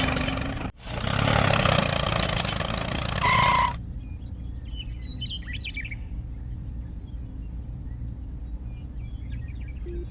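Tractor engine sound running, then cutting off after about four seconds with a short beep just before it stops. After that birds chirp a few times over a low steady hum.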